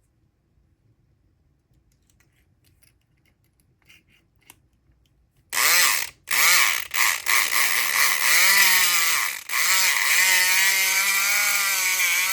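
Southord E500XT electric pick gun buzzing as its motor drives the pick. It comes in a few short bursts starting about five and a half seconds in, each one rising in pitch as the motor spins up. It then runs on continuously.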